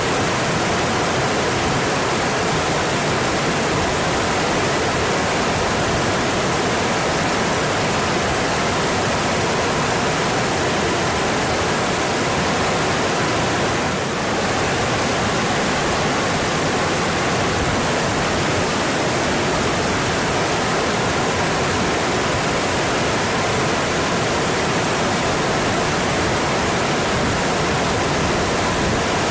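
Mountain stream flowing steadily, an even, constant rush of water, with a brief slight dip in level about halfway through.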